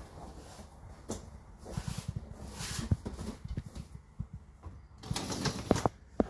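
Dishwasher racks being handled, with irregular clicks, knocks and rattling of dishes and cutlery, and a sliding scrape near the end as a rack is drawn out.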